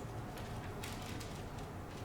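Faint rustling and a few soft brief clicks over a low steady room hum: pages of Bibles being turned to the announced reading.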